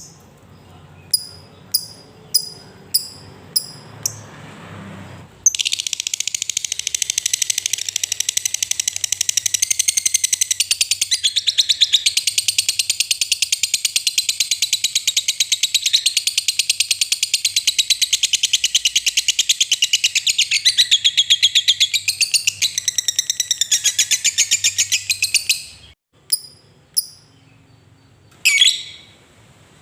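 Lovebird chirping a few single sharp notes, then breaking into a long 'ngekek': a rapid, unbroken chattering trill lasting about twenty seconds, followed by a few more single chirps near the end.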